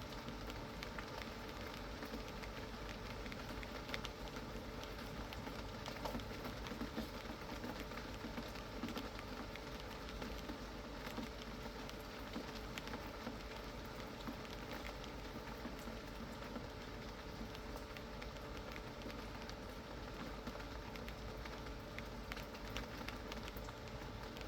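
Steady rain falling, an even hiss of rain with many small drop ticks, over a faint steady hum.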